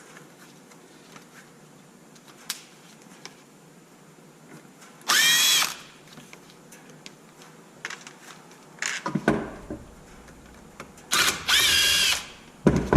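Cordless drill-driver with a hex bit spinning in two short runs, each winding up in pitch and then holding steady, to back out the X-Maxx skid plate screws. A few light clicks and knocks of the tool and metal bolts come in between.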